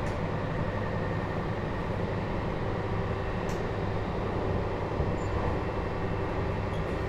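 Running sound inside a JR Hokkaido 721 series electric train car (MoHa 721-4202, fitted with a Toshiba GTO inverter), moving steadily along the line with an even rumble of wheels on rails and motor hum. There is a faint click about three and a half seconds in.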